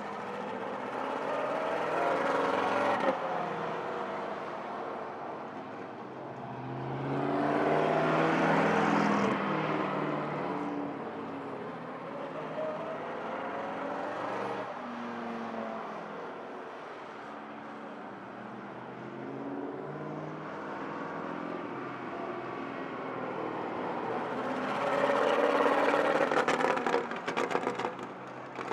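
Vintage straight-eight-engined cars driving by, the engine note swelling and falling away as each passes, loudest about two to three seconds in, around eight seconds, and again near the end.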